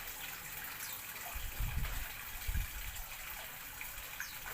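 Steady rushing hiss like running water, with two short low thuds about a second and a half and two and a half seconds in.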